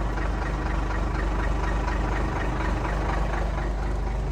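1991 International 4900 dump truck's diesel engine idling steadily.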